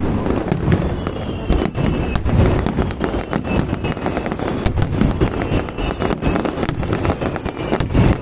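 Fireworks display going off in a dense, unbroken barrage of rapid bangs and crackling.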